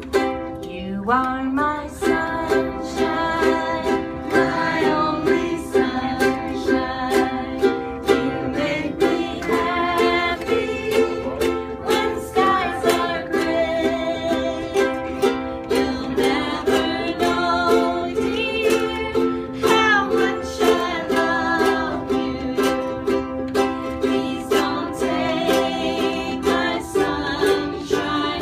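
A group of ukuleles strummed in a steady rhythm while voices sing a song.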